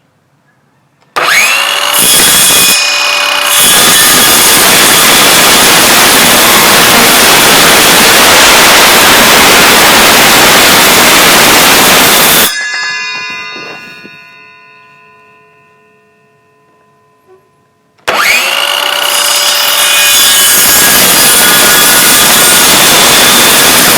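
Electric power saw cutting plywood. It spins up with a rising whine about a second in and cuts steadily. About halfway through it stops and winds down with a fading ring, then starts up and cuts again a few seconds before the end.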